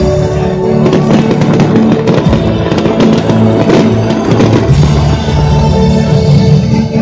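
Fireworks bursting and crackling in quick succession over loud music. The bangs are densest in the first half and thin out, leaving mostly the music.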